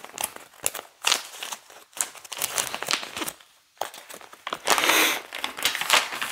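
Plastic bag crinkling, with sharp clicks of small hard plastic pieces, as LEGO pieces are handled and sorted. A longer, denser crinkle comes about five seconds in.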